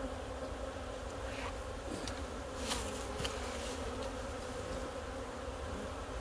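Honey bees from an opened, disturbed hive buzzing steadily in a dense swarm of flight hum, with a couple of short clicks a little under halfway through.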